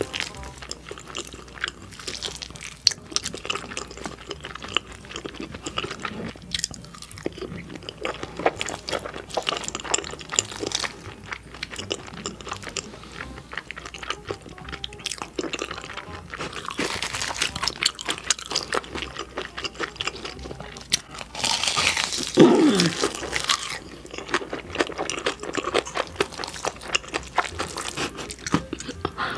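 Close-miked eating sounds: a person chewing spicy food with wet mouth noises, with small clicks of a spoon and chopsticks in the bowl. A brief vocal sound comes about three quarters of the way through.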